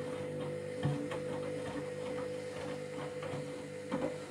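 Candy Grand'O Vita washing machine running mid-cycle: a steady motor whine and hum as the drum turns, with small irregular clicks and knocks over it.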